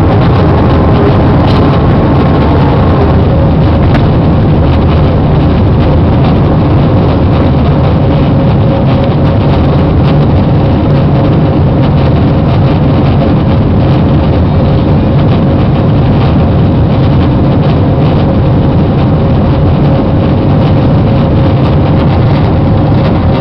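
Airbus A320 jet engines running: a loud, steady rushing noise with a single steady tone held within it.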